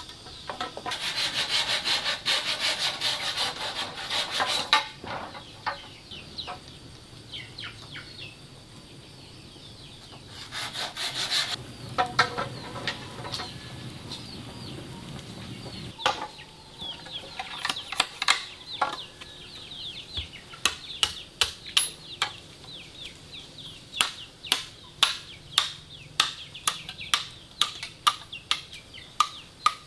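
Chicks cheeping, with rapid rubbing or sawing strokes in two spells, the first about a second in and the second near the middle. In the second half comes a run of sharp knocks, one or two a second.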